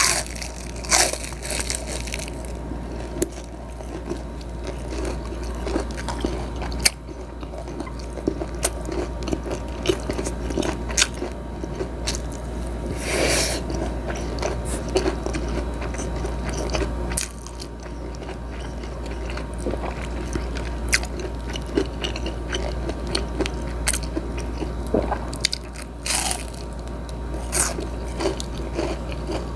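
Crunching and chewing of crispy breaded fried calamari: a bite at the start, then many irregular sharp crunches as it is chewed, over a low steady hum.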